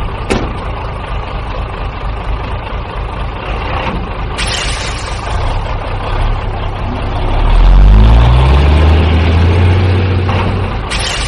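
Heavy vehicle engine running, revving up with a rising pitch about seven seconds in, loudest around eight seconds, then easing off. Two short hisses come about four seconds in and near the end.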